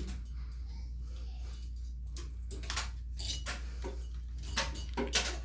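Scattered light clicks and metallic taps of shower plumbing fittings being handled and threaded together by hand, over a steady low hum.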